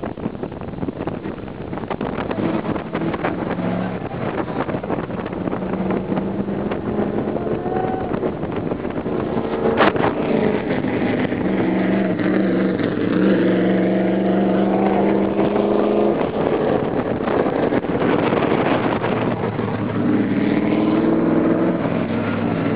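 Vehicle engines running over steady wind and road noise, heard from the open bed of a moving pickup with a stock car driving alongside. An engine note climbs in pitch and holds from about halfway through, and again near the end. There is one sharp knock about ten seconds in.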